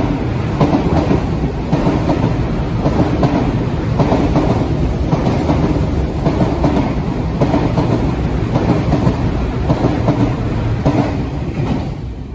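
Out-of-service electric commuter train passing through a station platform at speed without stopping: a loud, steady rumble of wheels on rail with irregular clatter. It fades near the end as the last car clears.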